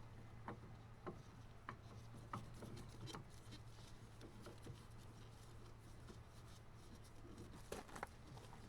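Faint rubbing and scattered light clicks as a new fuel filter, its O-ring just lubricated, is handled and fitted by hand, over a low steady hum.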